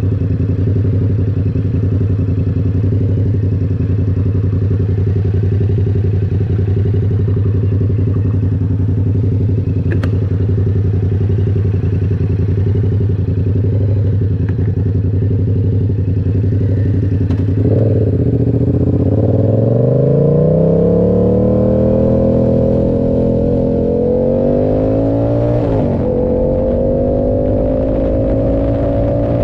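Yamaha R7's 689 cc parallel-twin engine through an SC Project exhaust, holding a steady low note, then accelerating about two-thirds of the way in, its pitch rising, with a short dip at a gear change and rising again.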